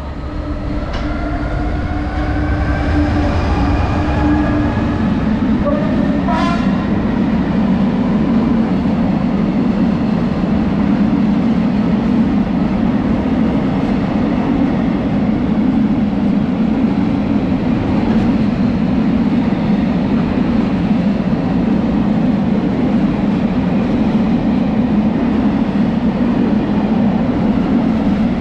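A train running through the station, with a whine that rises in pitch over the first few seconds. About six seconds in there is a brief high sound, and after that the train settles into a loud, steady rumble.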